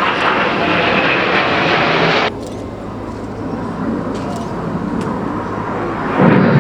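BAE Hawk T1 jets of the Red Arrows flying overhead: a loud jet rush that cuts off abruptly about two seconds in, leaving a quieter, duller jet rumble that swells again just before the end.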